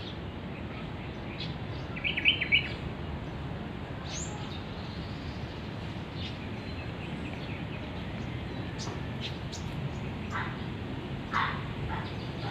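Birds chirping now and then over steady low background noise. A quick run of three or four sharp chirps about two seconds in is the loudest sound, with a few more short calls near the end.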